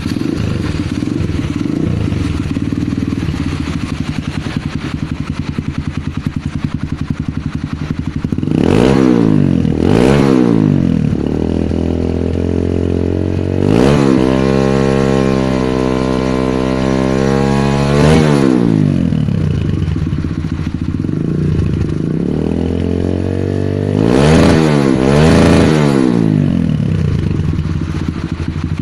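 Kawasaki KLX150's single-cylinder four-stroke engine through an aftermarket Akrapovič-style racing exhaust, idling with a rapid steady beat. It is blipped twice about nine seconds in, held at raised revs for about four seconds a little past the middle, then blipped twice more near the end.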